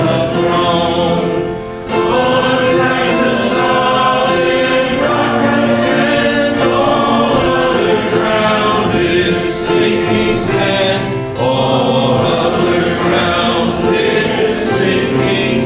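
Choir singing a hymn, several voices holding long sung notes.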